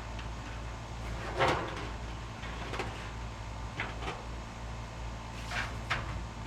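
A handful of scattered knocks and clunks, the loudest about one and a half seconds in, over a steady low hum.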